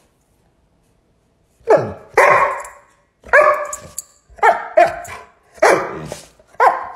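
A dog barking repeatedly, about eight loud barks in an uneven rhythm, starting after a second and a half of silence.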